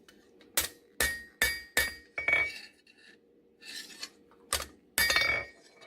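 Hammer striking hot high-carbon steel on an anvil: a run of about five sharp, ringing metallic blows, roughly two a second, then a short pause and a few more blows.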